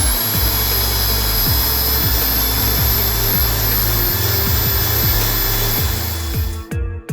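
Power tool running steadily with a thin high whine, sanding and polishing a rusted steel knife blade, over electronic background music. The tool stops near the end.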